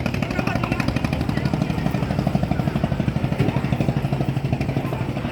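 A small boat engine running steadily with a fast, even putter.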